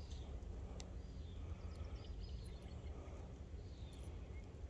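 Faint, scattered bird chirps over a steady low rumble, with a single sharp click about a second in.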